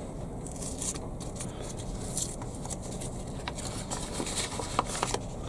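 Scattered small clicks and rustles of hands handling seed packets and pots while sowing lettuce seed, over a steady low hum.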